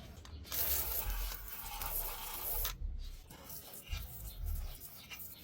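A hissing spray, as in washing, for about two seconds, followed by quieter irregular rubbing and scrubbing sounds.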